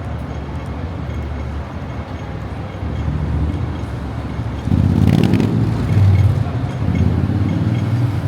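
Street traffic: a steady low rumble of road vehicles that grows louder about five seconds in as a heavy vehicle passes close, with a brief hiss.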